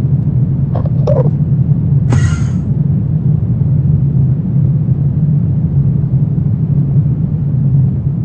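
Dark horror ambience: a steady low rumbling drone, with two brief faint sounds about a second in and a short hiss about two seconds in.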